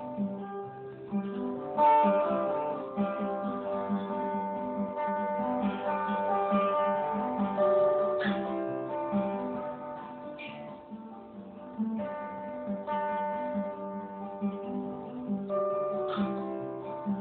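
Acoustic guitar played solo, picked and strummed notes without singing, with a strong pluck about two seconds in.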